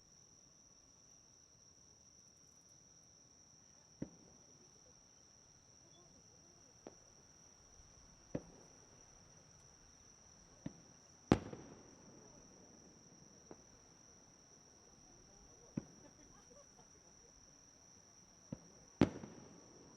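Fireworks shells bursting at irregular intervals, about nine sharp bangs with short echoing tails, the loudest two about eleven and nineteen seconds in. Crickets or other insects keep up a steady high trill underneath.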